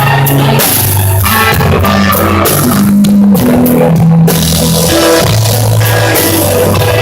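Live rock band playing loudly, with drum kit and cymbals, electric guitar and a low bass line moving through held notes.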